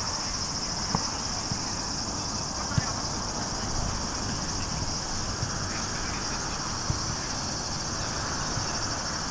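Steady high-pitched insect chorus trilling without a break, over a low rumble of wind on the microphone, with a few faint knocks.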